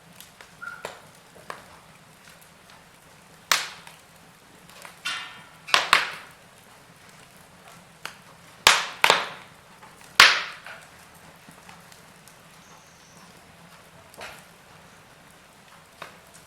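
Wood fire in a fireplace crackling: sharp pops and snaps at irregular intervals over a faint steady hiss, the loudest few bunched in the middle.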